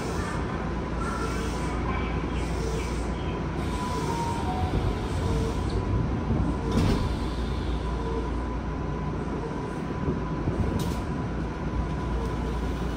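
Running noise heard inside a Tokyu 5050 series electric train car with Hitachi IGBT-VVVF traction control: a steady low rumble from the wheels and running gear with a thin, steady high whine. A couple of brief clicks come past the middle.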